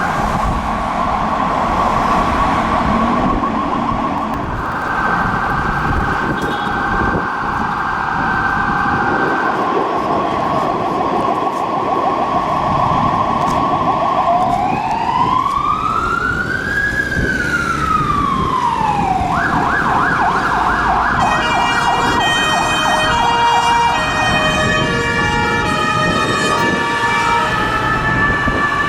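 Ambulance electronic siren switching modes: a two-tone hi-lo alternation, then about halfway through a single slow rising-and-falling wail, then a fast warble, joined near the end by a stepped multi-tone siren pattern. Traffic noise runs underneath.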